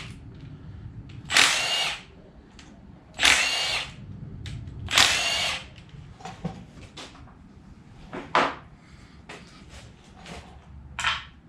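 Handheld power tool, drill or power-ratchet type, run in three short bursts about two seconds apart, then a few light clicks and knocks of parts being handled.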